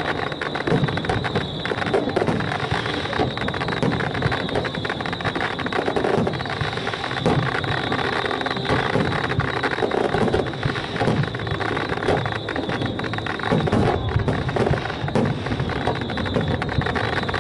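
Aerial fireworks display: many shell bursts and crackles in quick succession over a continuous rumble, with no let-up.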